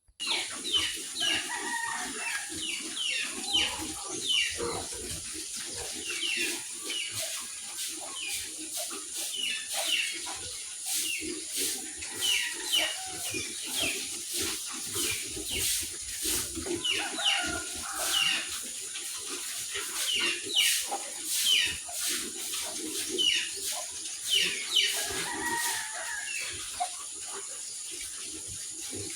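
Farmyard chickens clucking and calling over and over, with many short high chirps and scattered clicks over a steady high hiss.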